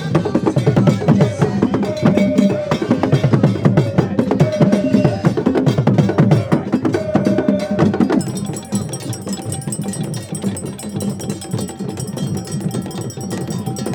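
Percussion music: dense, fast drumming with sharp wood-block-like strikes and a few short held notes. About eight seconds in it drops abruptly to a quieter, thinner texture with steady high tones.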